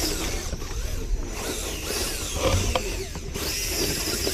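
Electric motor and gears of a 2.2-class RC rock crawler whining as it crawls, the pitch rising and falling with the throttle, with a click or two from the chassis and tyres on the rock.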